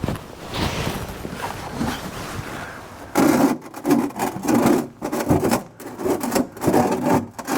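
Scraping and rubbing of an oil drain pan being shoved into place under the tractor. It is a loose mix of noise at first, then a run of short scrapes about two a second from about three seconds in.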